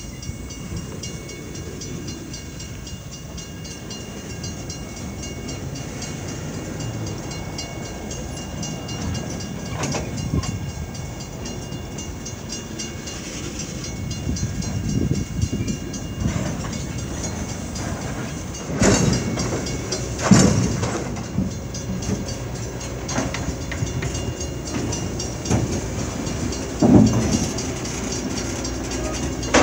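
CSX freight cars rolling past on the rails, with a steady rumble and faint high squeal tones at first. From about the middle on come several sharp loud bangs.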